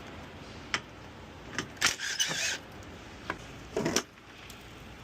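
Scattered sharp clicks and knocks of a tool working loose the oil filter housing cap, with a short hissing rasp about two seconds in and the loudest knocks near the end.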